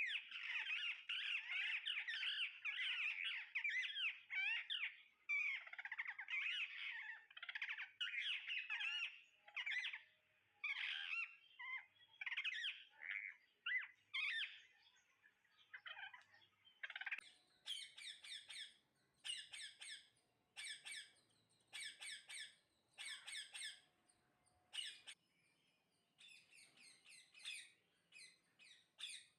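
Parrots calling: a dense run of rapid chattering chirps that thins out midway, then a series of harsh squawks, roughly one a second.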